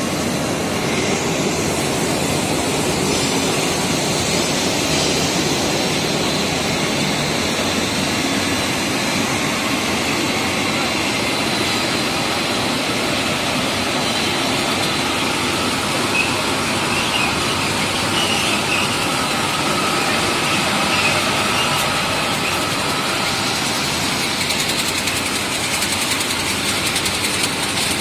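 Steady mechanical running noise of an industrial microwave drying and sterilizing machine, with a thin, steady high whine over it.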